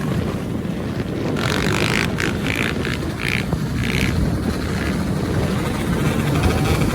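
Motorcycle engines running with a steady low rumble, with a few short, higher bursts about one and a half to four and a half seconds in.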